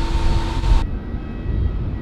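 Loud jet aircraft engine noise with a steady tone in it, cut off abruptly less than a second in. A quieter scene follows: a lower rumble with a faint, steady whine of jet engines.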